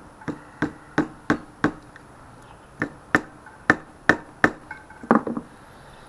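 Hammer taps on a KTM 250 EXC-F's cylinder to free the stuck barrel from the engine during top-end disassembly. About ten sharp knocks come in two runs, with a short pause about two seconds in.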